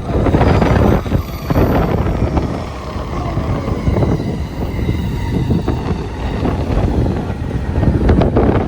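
Electric commuter train running through the station, its rumble mixed with heavy wind buffeting the microphone.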